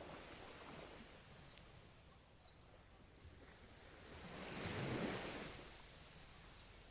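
Ocean surf: a faint, steady wash of waves, with one wave swelling and breaking about two-thirds of the way through, then fading away.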